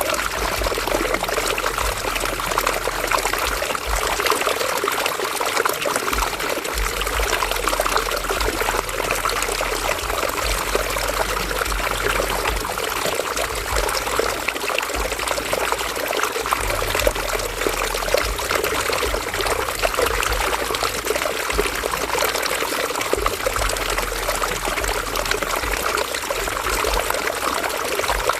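River water running steadily, an even rushing and splashing with no breaks. A low rumble underneath comes and goes every few seconds.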